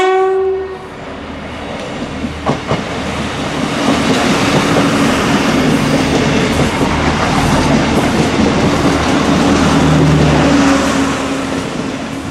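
A DART electric train ends a short horn note right at the start, then rolls past over jointed rail. The wheels click over the rail joints, and the sound builds to a loud, steady rumble before starting to fade near the end.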